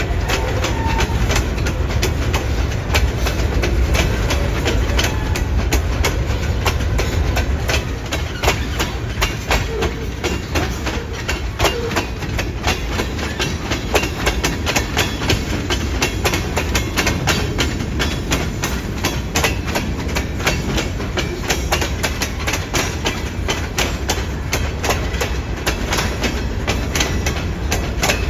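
Keokuk Junction Railway freight train rolling past, its car wheels clicking over the rail joints in a quick, uneven run of clacks over a steady low rumble.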